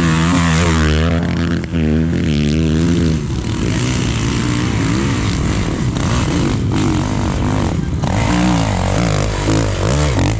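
Several off-road vehicle engines revving and labouring at once, their pitch rising and falling, as they climb through a rough, slippery stretch of trail.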